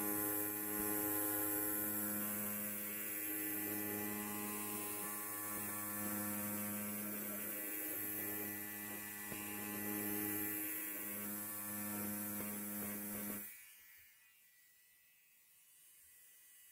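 Electric hair clipper running with a steady buzz, then switching off near the end, leaving only faint room tone.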